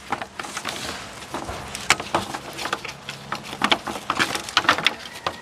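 Irregular crinkling and clicking of an aluminium foil pan as a seasoned fish is rolled around in it.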